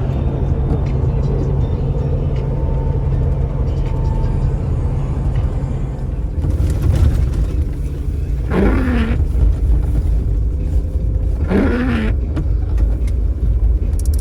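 Road and engine rumble inside a vehicle cabin while driving on the highway. About eight seconds in, a short squeaking sweep that dips and then rises in pitch starts repeating roughly every three seconds.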